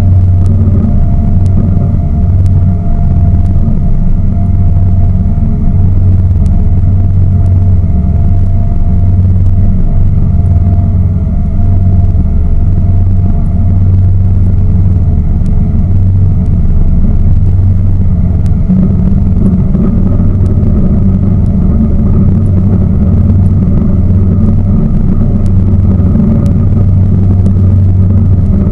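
A tour boat's engine running steadily, heard from on board as a loud, unchanging low rumble.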